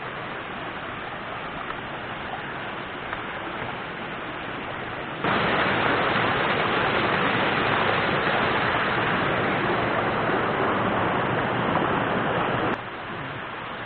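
Steady rushing of a small river's flowing water, much louder from about five seconds in until near the end, where it starts and stops abruptly.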